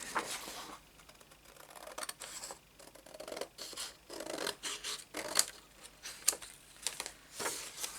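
Scissors cutting a sheet of old, brittle book paper: a run of irregular snips and paper scrapes as the page is trimmed.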